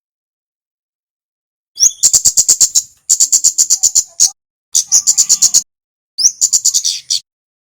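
Kemade (flowerpecker) song: after a pause of about two seconds, four quick bursts of high, clicky chipping notes, about eight to ten notes a burst, each burst opening with a short rising note.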